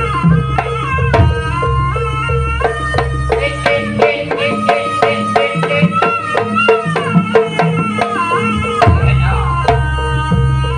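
Jaranan ensemble music: drums struck in a quick, busy pattern under a melody of long, sliding notes over a steady low drone.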